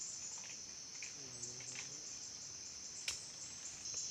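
Steady, high-pitched drone of an insect chorus, crickets or cicadas, with a faint low pitched sound about a second in and a single sharp click about three seconds in.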